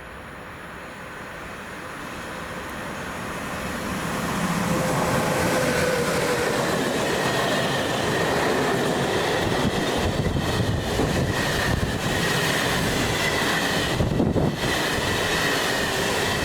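A train approaching and passing close by: the rumble grows louder over the first four seconds, then holds steady, with a thin high whine running through it and a few wheel clicks over the rail joints in the second half.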